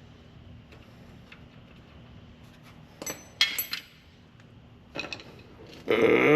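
Hand tools and steel brake parts clinking: a few sharp metallic clinks about three seconds in, another click near five seconds, over a faint steady hum.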